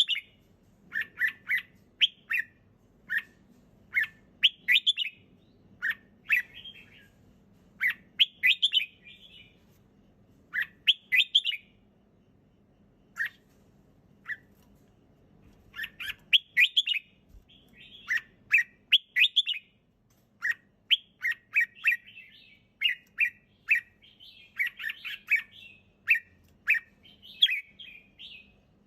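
Red-whiskered bulbul singing: short phrases of bright chirping notes, repeated every second or two, with a lull of a few seconds about halfway through.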